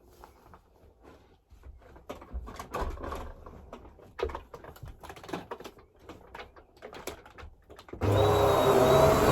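Scattered clicks and knocks, then about eight seconds in the Vax Air Stretch vacuum cleaner's motor switches on and runs with a steady whine.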